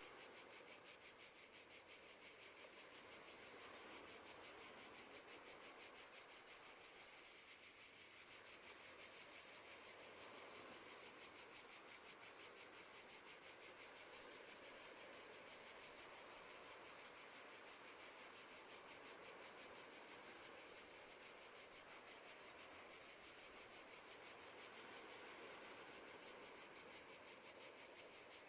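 Crickets chirping faintly in a steady, fast, even pulse, a high trill that goes on without a break.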